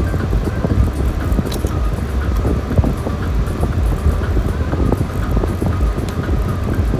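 Car driving on a highway, heard from inside the cabin: a steady low rumble of engine and tyre noise.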